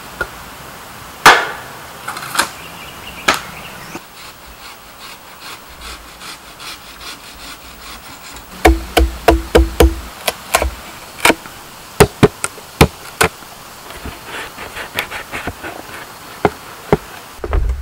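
Sharp knocks of a tool striking bamboo during building work: a few spaced blows at first, a quicker run of strikes in the middle, then scattered lighter taps.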